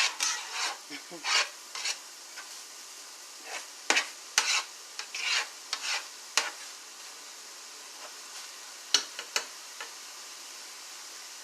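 Turkey lunch meat sizzling in a frying pan, with a spoon scraping and knocking against the pan as it stirs and cuts up the meat. The scrapes come irregularly over a steady sizzle and thin out after about seven seconds.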